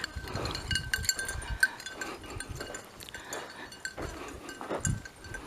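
A small bell jingling on and off in short, irregular rings.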